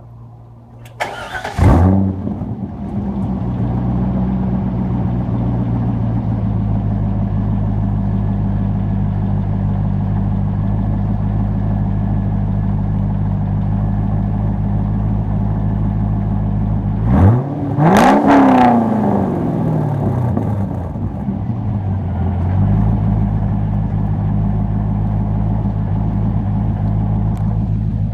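2001 Corvette Z06's LS6 V8 with a muffler delete (stock headers and cats) starting about a second and a half in, flaring up loudly, then idling steadily. About 17 seconds in it is revved once, rising quickly and falling back to idle over a few seconds.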